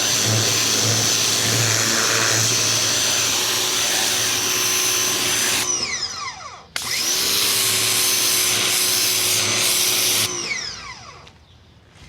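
Ryobi 2000 PSI electric pressure washer running with its spray hissing and a steady motor whine. It cuts out about halfway with the motor winding down in falling whines, starts again abruptly a second later, then cuts out and winds down near the end as the trigger is let go.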